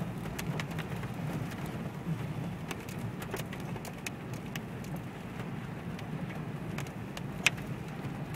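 Car driving on a rough dirt track, heard from inside the cabin: a steady low drone of engine and tyres, with scattered sharp clicks and one louder click about seven and a half seconds in.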